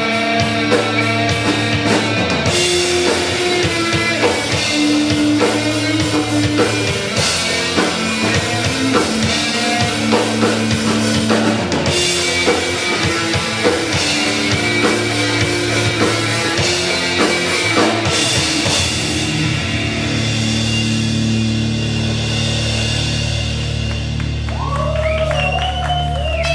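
Live rock band playing: drum kit and amplified guitars and bass. About twenty seconds in the drumming stops and a held low chord rings on to the end of the piece.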